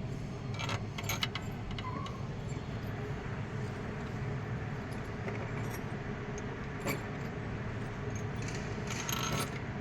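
Light metallic clinks and jingles, a few scattered ones about a second in, near seven seconds and around nine seconds, over a steady low background hum.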